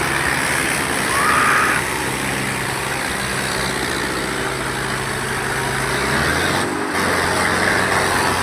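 Tractor engine running steadily, its note shifting slightly about six seconds in.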